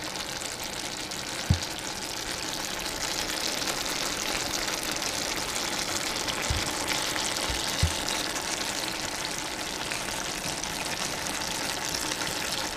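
Chicken and vegetable stir-fry simmering in sauce in a pan, a steady sizzle throughout. A few soft low thumps, the first about a second and a half in and a few more between six and eight seconds in.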